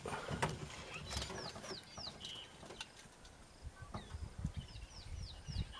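A bird calling in short runs of three or four quick, high, falling whistles, twice, over scattered faint knocks.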